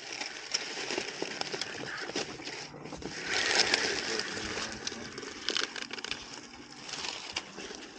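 Crackling and rustling of dry leaf litter and brush, full of small snaps and clicks, swelling louder about three seconds in before settling again.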